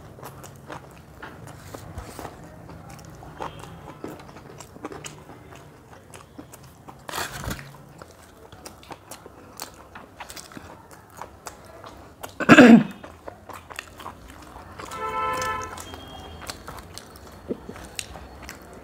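Two people biting and chewing chicken leg pieces eaten by hand, with many small wet mouth clicks and smacks. About twelve seconds in there is one brief, loud vocal sound falling in pitch, and shortly after it a short hummed tone.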